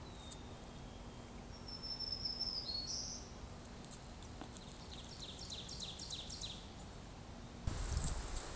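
A songbird singing: a high whistled note that steps in pitch, then a quick run of about ten short descending notes, roughly four a second. Near the end there is a sudden burst of rustling and scratching.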